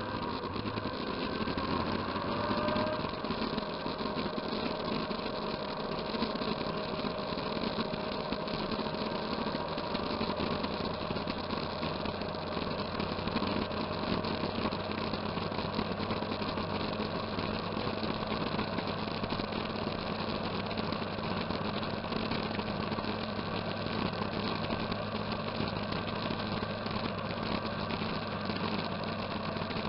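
A vehicle engine running steadily, its pitch rising over the first few seconds and then holding.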